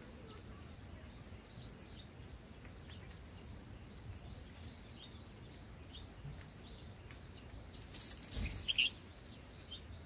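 Small birds chirping with short, high whistled notes throughout. About eight seconds in there is a loud flutter of wings and rustling as an adult red-whiskered bulbul flies off from the nest.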